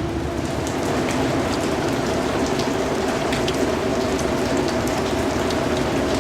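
Steady rain falling, with many individual drops ticking through the even hiss. A faint steady hum sits underneath.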